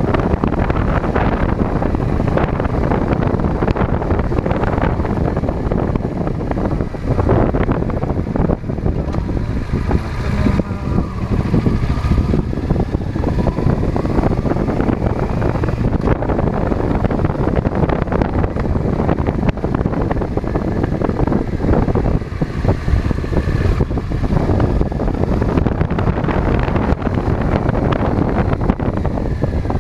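Wind buffeting a chest-mounted GoPro's microphone while riding a bike: a steady, loud low rumble of rushing air and ride noise.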